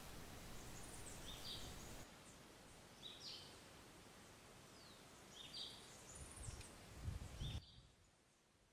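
Faint outdoor ambience: small birds giving short, high chirps every second or so over a low hiss, with a few soft low bumps near the end.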